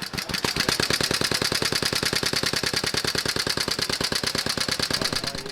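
Supercharged 1925 Triumph 500cc sidevalve single-cylinder engine running at a steady speed, its exhaust beats coming evenly at about ten a second.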